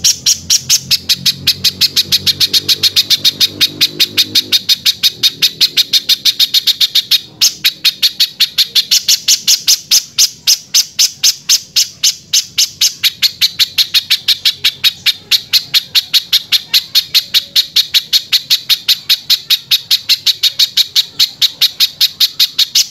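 Spiderhunter (pijantung) singing a harsh, rapid string of sharp repeated notes, about five a second, with one brief break about seven seconds in.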